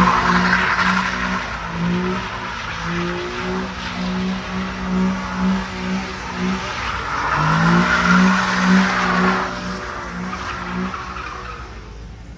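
Car spinning donuts: the engine is held at high revs, pulsing on and off the throttle, while the tyres squeal and skid. The squeal is strongest at the start and again around eight seconds in, then fades away near the end.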